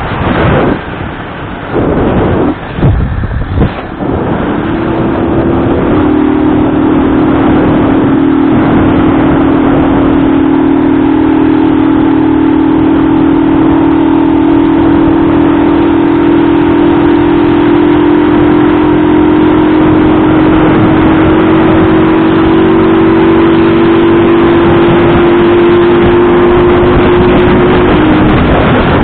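An engine running at a steady pitch for over twenty seconds, rising slightly before it breaks off near the end. It follows a few seconds of irregular rumbling noise.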